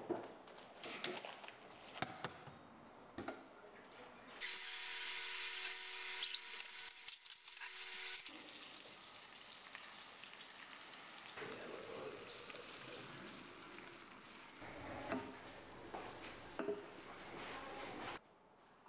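Chicken pieces frying in melted butter in a metal pan. A loud hiss of sizzling sets in about four seconds in, then settles to a quieter, steady sizzle with scattered clicks and knocks.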